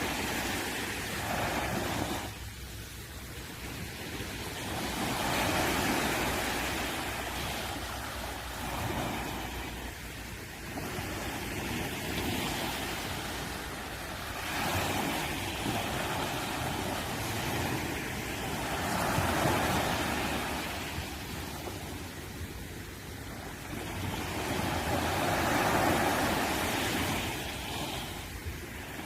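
Sea waves breaking on a beach: a steady wash of surf that swells and fades with each wave, about every five seconds.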